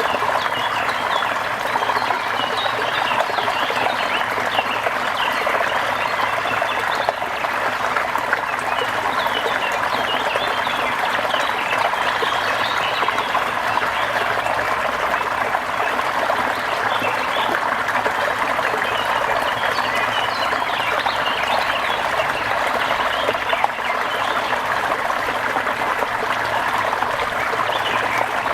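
Steady rain with water trickling, an even wash of sound sprinkled with many short, high ticks.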